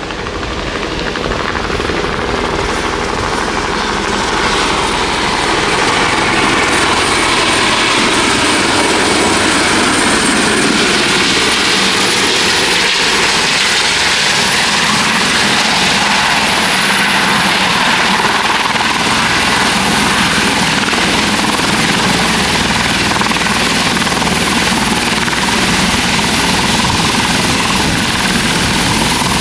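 Helicopter turbine engine and rotor running, with a steady high turbine whine over the rotor noise. The sound grows louder over the first few seconds, then holds steady.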